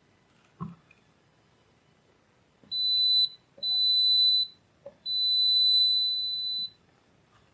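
An electronic beeper, most likely a multimeter's continuity buzzer, sounds three steady high-pitched beeps, each longer than the last, the third about one and a half seconds long. Small clicks come just before the second and third beeps, and there is a single light knock near the start.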